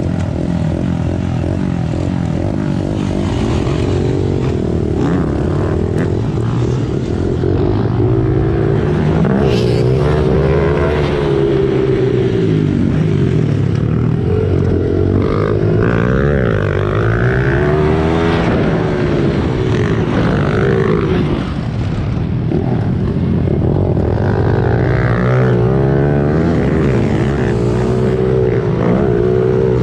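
Small four-stroke single-cylinder pit bike engine revving up and down as the bike accelerates out of and brakes into corners, its pitch rising and falling several times.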